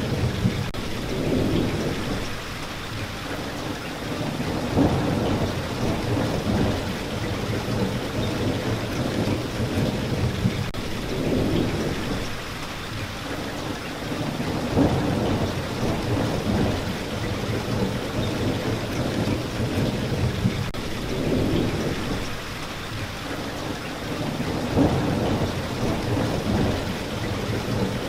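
Steady rain falling, with a low rumble that swells and fades every few seconds.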